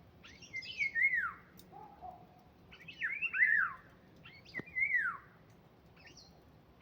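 A songbird singing three short phrases of quick whistled notes, each note sliding down in pitch, with pauses of a second or two between phrases.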